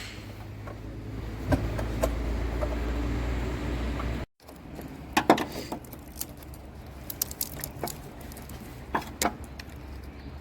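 Hand tools clinking and clicking against metal as the 10 mm intake-manifold bolts of a Ford 4.6 L V8 are undone: scattered sharp metallic clinks. A steady low hum underlies the first four seconds and stops abruptly.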